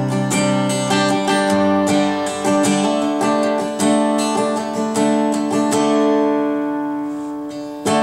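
Acoustic guitar strumming chords in the instrumental intro of a country song, before the vocals come in; the strumming thins out and the last chord rings down near the end.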